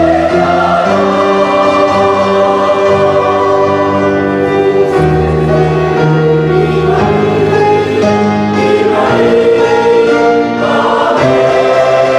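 Church choir singing a gospel anthem in sustained chords.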